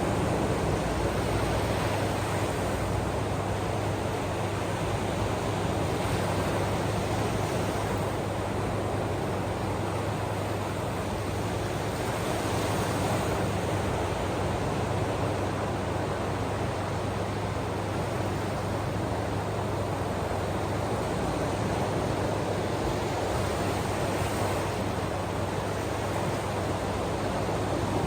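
Ocean waves washing on the shore: a steady, even rushing with slight swells every few seconds.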